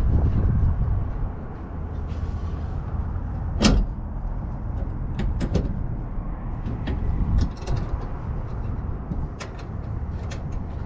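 Sharp knocks and clicks from parts being handled and fitted inside an HVAC unit's cabinet, a few of them scattered through, the loudest about a third of the way in, over a steady low rumble.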